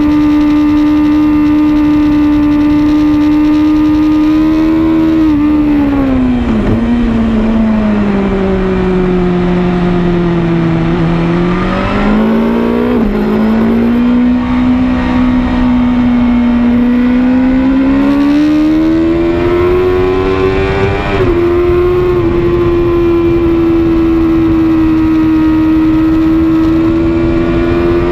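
BMW S1000RR's inline-four engine at high revs under the rider, with wind rush. The note holds steady, drops away from about five seconds in as the bike slows, then climbs again and holds steady near the end.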